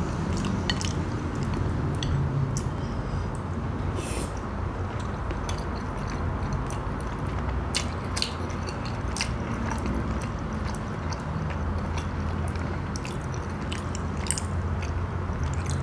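Close-miked chewing of pempek, the chewy Palembang fish cake, with scattered wet mouth clicks over a steady low rumble.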